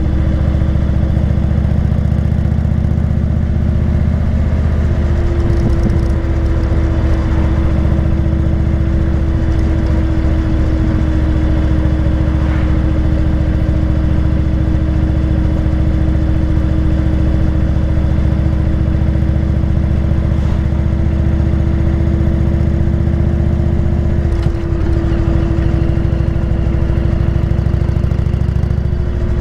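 Motorcycle engine running steadily while cruising on the road, its note holding even, with brief changes about five seconds in and again near the end.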